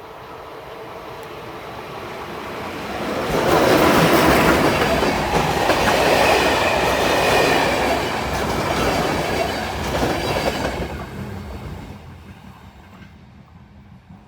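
A train passing close by: its rumble and wheel noise on the rails build up, stay loud for about seven seconds with a faint high wheel squeal, then fade away.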